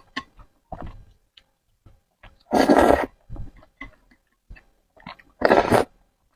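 Close-miked slurping of spicy noodles, two loud half-second slurps about three seconds apart, with wet chewing and lip-smacking clicks between them.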